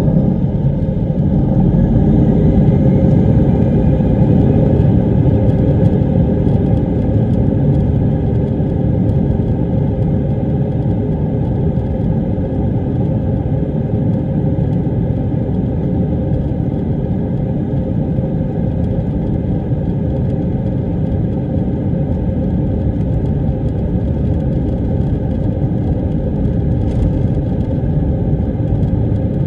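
Airbus A319 jet engines at takeoff power heard from inside the cabin: a loud, steady rumble with humming engine tones, loudest a few seconds in and easing slightly after.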